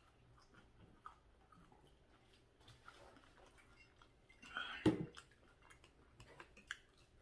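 Quiet, close-miked chewing with small mouth and cutlery clicks. About five seconds in there is a louder short scrape ending in a knock.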